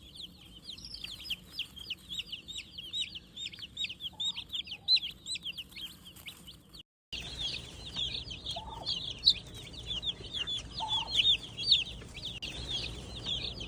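A brood of Cornish Cross meat chicks peeping without pause, many short high peeps overlapping, each falling in pitch. The sound cuts out for a moment about seven seconds in and comes back a little louder.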